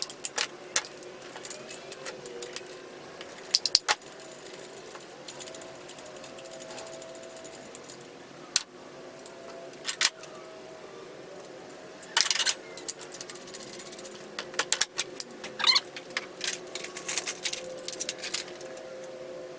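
Metal hand tools (ratchet, socket and extensions) clicking and clinking in short, scattered bursts during spark plug work on an engine, over a faint steady hum.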